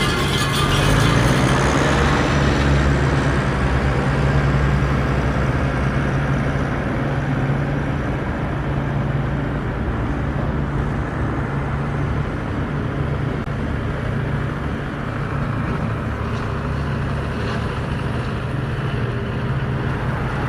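Mahindra tractor's diesel engine running steadily while pulling a cultivator.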